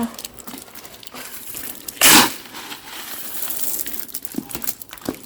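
Pebble gravel crunching and scraping, with one loud gritty crunch about two seconds in and scattered smaller crunches and clicks around it.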